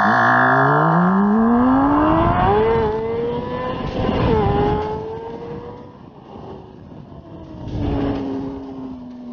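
Vehicle engine accelerating hard, its pitch climbing steadily for about four seconds and then dropping sharply as the throttle comes off, with a slower fall in pitch afterwards.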